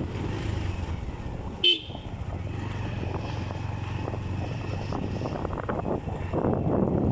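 Bajaj Pulsar 150 single-cylinder motorcycle engine running steadily under way, with wind rushing over the microphone. A single short horn beep sounds about a second and a half in.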